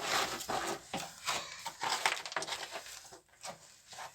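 Footsteps scuffing and crunching on loose stones and gravel, as a series of irregular clicks and scrapes.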